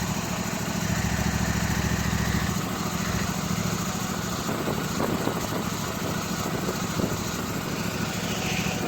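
Toro TimeCutter riding mower engine running steadily as it warms up after a cold start in near-freezing weather. Its low rumble drops away about two and a half seconds in.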